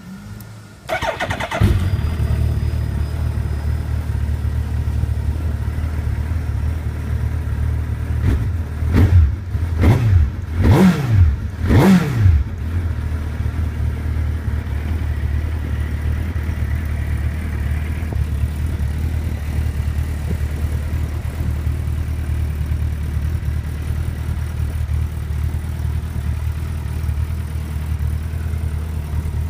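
Suzuki GSX1300R Hayabusa inline-four through a Wyvern aftermarket exhaust, cranked on the starter and catching about a second and a half in. It settles to a steady idle, then is blipped four times in quick succession around the middle before returning to idle.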